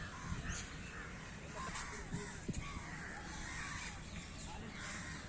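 Many birds calling over one another in a busy, continuous chorus.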